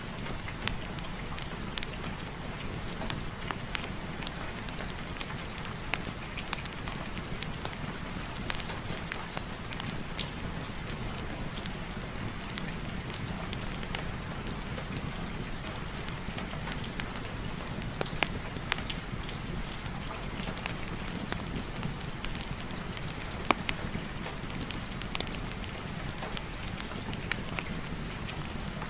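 Steady rain mixed with a crackling fireplace fire: an even hiss with frequent sharp pops and crackles, one louder pop about three-quarters of the way through.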